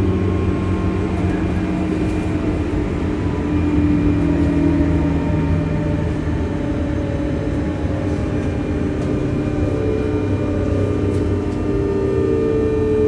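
Running sound inside a JR West 201 series motor car as the train slows into a station: a low rumble with steady whining tones from the chopper-controlled traction motors that slowly glide in pitch.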